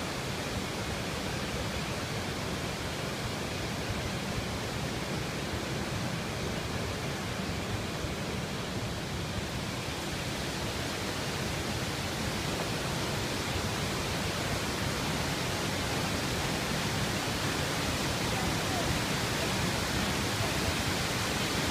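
Oshinkoshin Falls' waterfall: a steady, even rush of falling water, growing a little brighter about halfway through.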